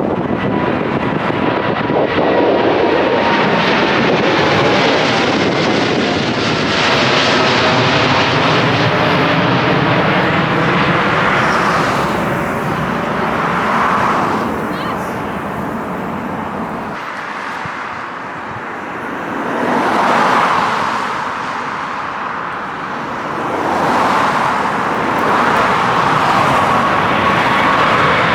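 Departing jet airliner passing low overhead on its climb-out, the engine noise loud and steady with a whine gliding down in pitch in the first several seconds, easing off briefly in the middle and swelling again.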